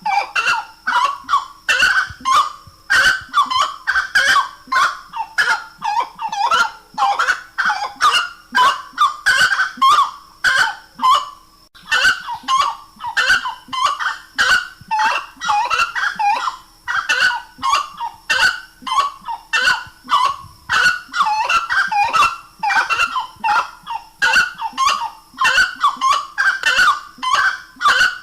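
Grey-cowled wood rail (saracura-três-potes) calling loudly: a fast run of harsh, repeated honking notes, about three a second, with one brief pause partway through.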